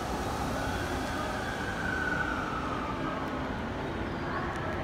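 Electric commuter train at a station: a steady rumble with a high whine that swells and fades about two seconds in.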